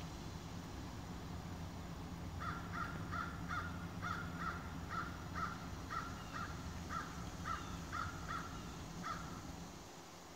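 A bird calling in a rapid series of short repeated notes, about two to three a second, beginning about two seconds in and stopping about a second before the end, over a low steady hum.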